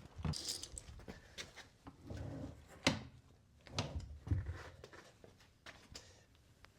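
Scattered sharp knocks and clicks with short stretches of scraping and rustling, the loudest knock about three seconds in: tools and parts being handled.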